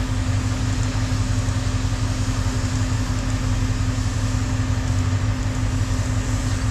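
Steady hum of an idling engine, with a constant low drone and an unchanging tone above it.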